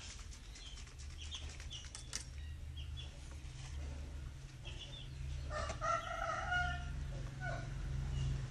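A rooster crowing once, a call of about a second and a half that starts about five and a half seconds in, over a steady low hum, with small bird chirps before it.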